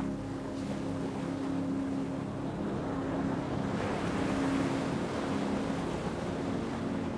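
Ocean wave washing in, its rush swelling to a peak about halfway through and easing off, over a steady low hum.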